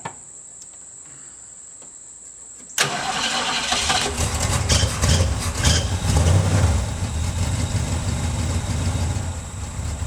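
A cold 1971 Mustang Mach 1 V8 fires up suddenly about three seconds in, then runs loud and uneven for a few seconds before settling into a steadier fast idle.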